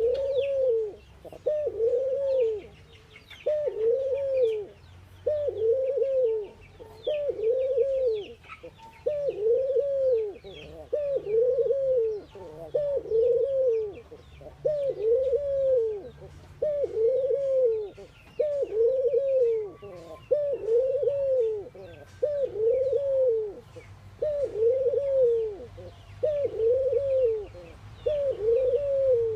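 Ringneck doves cooing: a long, steady series of low arched coos, each rising and falling, about one every second and a bit, with faint chirps from small birds above them.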